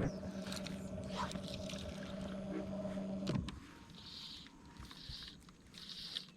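A small boat motor hums steadily and is shut off about three and a half seconds in. Then a short, high call repeats about once a second.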